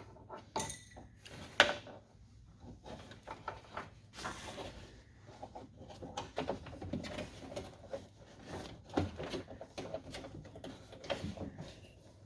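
Hands working parts inside a car door: scattered small clicks, knocks and rattles of the door handle and its linkage being handled, with one sharp click about one and a half seconds in.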